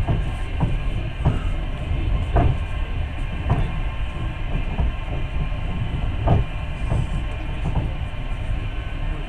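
Long-distance passenger train running: a steady low rumble, with the wheels knocking over rail joints roughly once a second.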